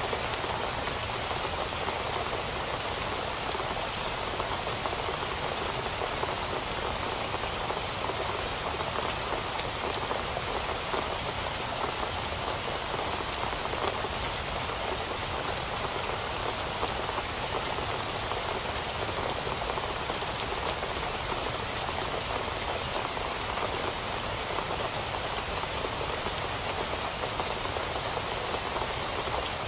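Steady rain falling, an even hiss of many drops with faint scattered ticks of individual drops hitting a surface.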